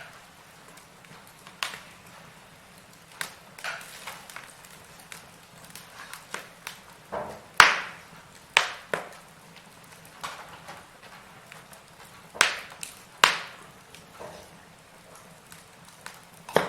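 Firewood burning, crackling with irregular sharp pops over a faint steady hiss. A few louder pops come in the middle of the stretch.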